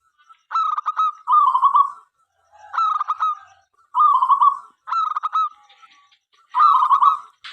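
Zebra dove (local perkutut) cooing, about six call phrases in quick succession, each a rapid stuttering run of notes.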